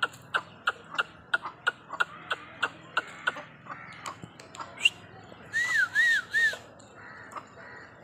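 Birds calling: a rapid string of short, sharp calls, about three a second, fades out after about three seconds. Near the six-second mark come three quick arched calls that rise and fall.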